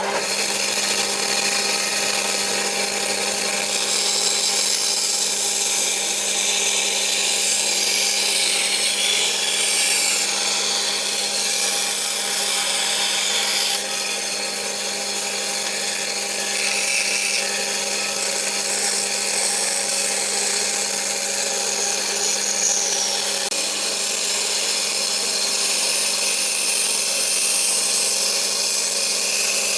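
Electric power tool running steadily in a woodworking build, its motor holding one even pitch; it starts abruptly at the beginning.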